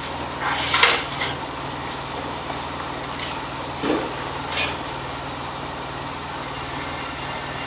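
Car engine idling steadily, with a few short clattering knocks about one, four and four and a half seconds in.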